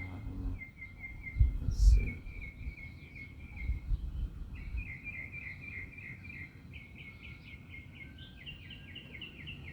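Songbird singing long runs of quick, evenly repeated chirps, several a second, with a second run of chirps at a slightly different pitch overlapping in the second half. A few low thumps about a second and a half in.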